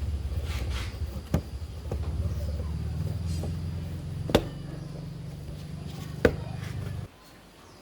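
A motor running steadily with a low hum, which stops abruptly about seven seconds in. A few sharp knocks sound over it.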